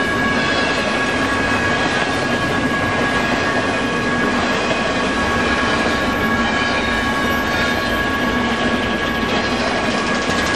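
Freight train of empty intermodal flatcars (a baretable train) rolling steadily past: continuous rumble and rattle of steel wheels on rail, with a steady high-pitched tone held over it.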